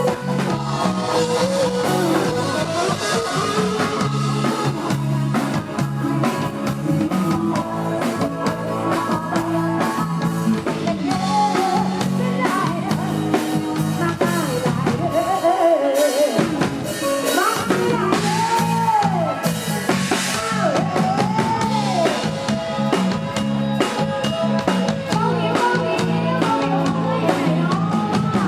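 Live Thai Isan band music with singing over drum kit, electric guitar and a steady bass line; the bass drops out briefly about halfway through, then comes back.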